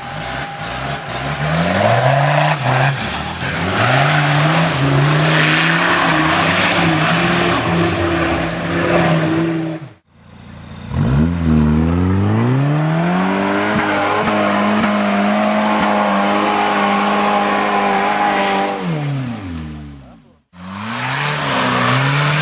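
Off-road 4x4 competition vehicle's engine revving hard, pitch climbing and held high before falling away, in three stretches broken by abrupt cuts about ten seconds in and again near the end.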